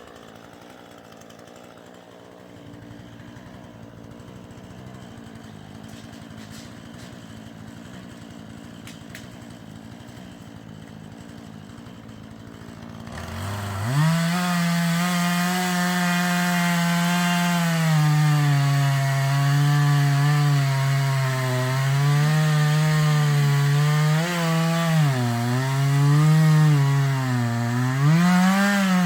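Husqvarna 440e two-stroke chainsaw idling quietly, then about halfway through revving to full throttle and running steadily. Toward the end its pitch sags and recovers several times as the chain bogs down cutting into wood.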